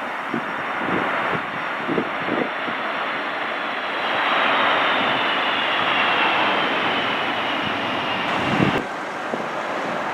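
Boeing 757-200's Rolls-Royce RB211 jet engines running with a loud rush and a thin whine that falls slowly in pitch, cutting off abruptly near the end. Strong gusts of wind thump on the microphone several times.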